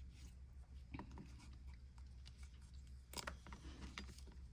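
Near silence with a low steady hum; a few faint rustles and soft clicks from yarn and a crochet hook being handled, about a second in and again around three to four seconds in.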